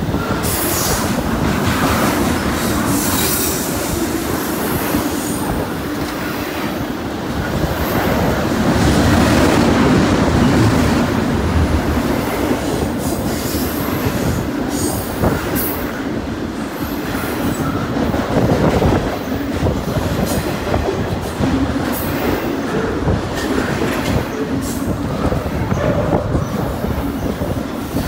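Freight train cars rolling past: a continuous rumble of steel wheels on rail with clattering over rail joints and occasional high wheel squeals.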